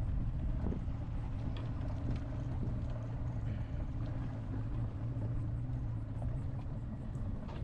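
Boat motor running steadily under way, a constant low drone with no change in pitch.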